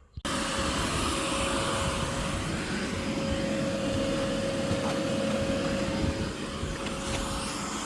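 A vacuum cleaner running steadily with a steady whine through its rush of air, cutting in suddenly at the start.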